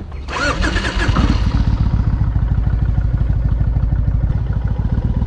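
Kawasaki Vulcan Nomad 1600's V-twin engine. After a brief clatter at the start, its sound swells about a second in and then runs at a steady, lumpy idle with an even low pulse.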